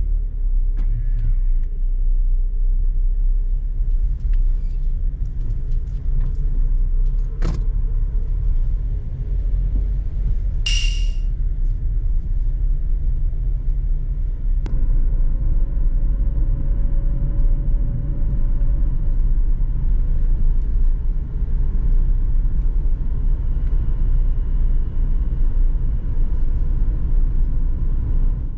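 Steady low road rumble inside a moving car, with a brief high jingle about eleven seconds in.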